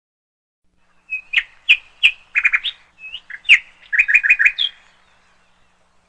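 A songbird singing a few phrases of clear whistled notes and quick repeated chirps. It starts about a second in and stops near the end.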